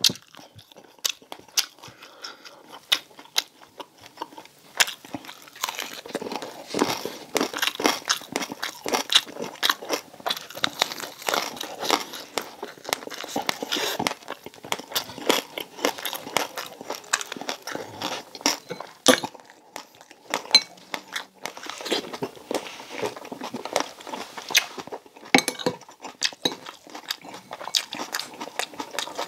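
A person biting and chewing crispy deep-fried pork belly (bagnet / lechon kawali), its crackling skin giving many sharp, rapid crunches with wet chewing between them.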